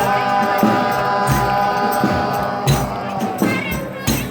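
Folia de Reis singers holding one long note in several voices over a steady beat of drum strokes. The held chord ends a little past three seconds in, and the drumming and percussion carry on.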